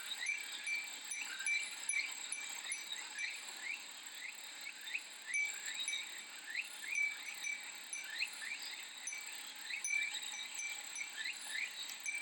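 Cicadas singing in a steady high chorus, with a glass Japanese wind chime (fūrin) tinkling now and then and many short rising chirps.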